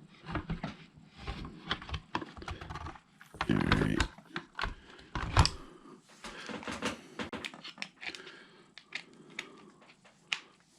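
Irregular clicks and knocks of hand tools and plastic RC truck parts being handled during a teardown, with a short busier clatter about three and a half seconds in.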